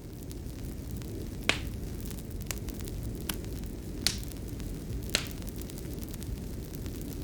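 Fireplace fire crackling: a steady low rumble with a handful of sharp, irregular pops.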